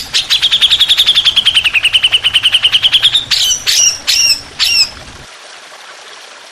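Songbird singing a rapid, even trill of many short notes for about three seconds, dipping slightly in pitch and then rising again, followed by three sharp down-slurred whistled notes; then only faint hiss.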